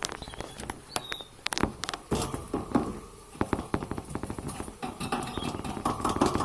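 Budgerigars chattering: a dense run of quick clicks and ticks, with a few short high chirps in the first second.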